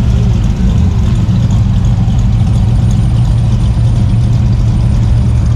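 A vehicle engine idling steadily, with a loud, low, even hum.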